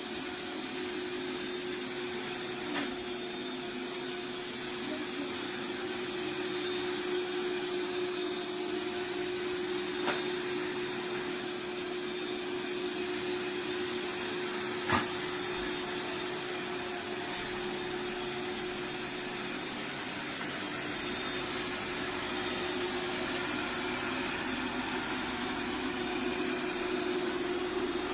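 iRobot Roomba 405 Combo robot vacuum running with a steady whir and a constant hum. Faint knocks come a few times, the sharpest about halfway through.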